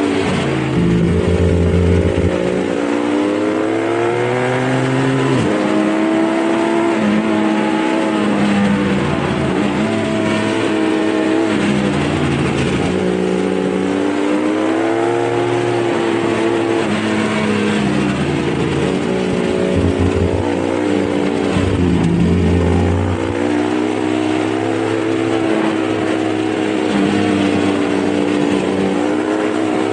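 Dirt bike engine running under way on a trail, its pitch climbing and dropping back several times as it speeds up and eases off.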